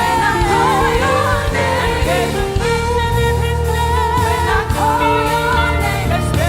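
Live gospel praise-and-worship music: a band with bass and keys playing while singers carry a wavering melody line.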